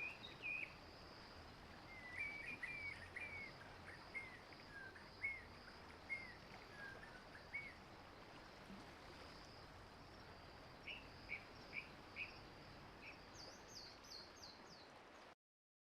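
Wild birds calling over a faint steady high hiss: a chattering run of short chirps, then a few spaced single notes and a quick series of higher falling notes near the end, before the sound cuts off suddenly.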